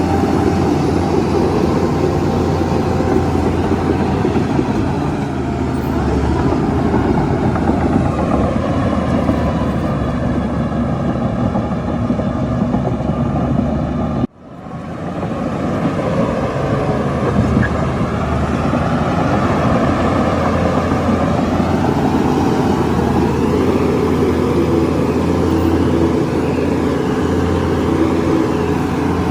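Heavy diesel engine of a Shantui bulldozer running steadily, its pitch shifting as the load changes. About halfway through, the sound cuts out abruptly for a moment and then resumes.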